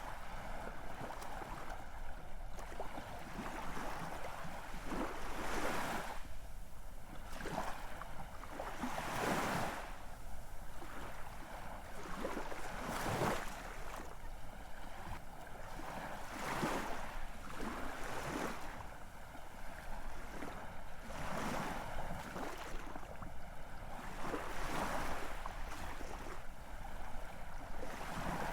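Ocean waves breaking and washing in, swelling and falling back every three to four seconds.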